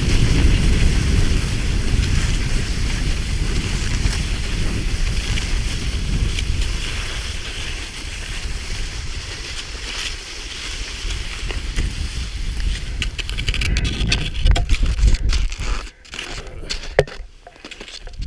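Wind buffeting the microphone, with a steady scraping hiss over snow; it eases about two-thirds of the way through and gives way to scattered clicks and knocks near the end.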